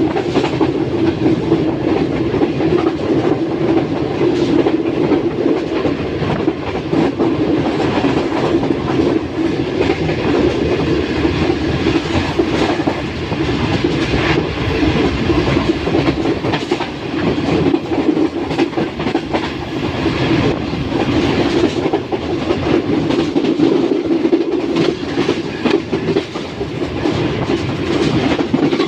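Passenger train running at speed: the steady rumble of its coach wheels on the rails, with quick clattering knocks as they pass over the track.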